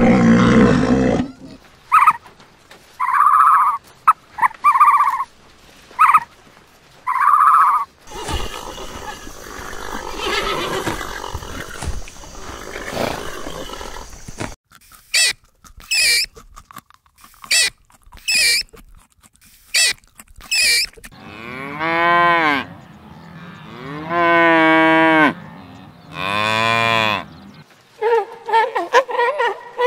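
A string of separate animal calls. The longest and loudest are three drawn-out cattle moos about midway through the second half. It opens with the tail end of a loud roar.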